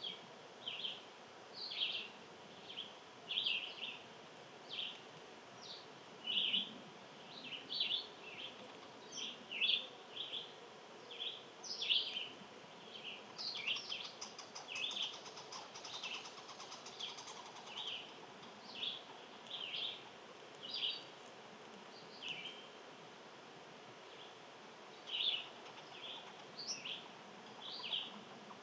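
Small birds chirping: short high chirps repeated about once or twice a second, with a faint fast trill higher up in the middle.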